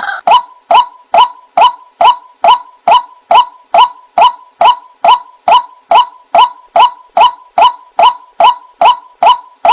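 White-breasted waterhen calling: the same short, sharp note repeated steadily, a little over two times a second.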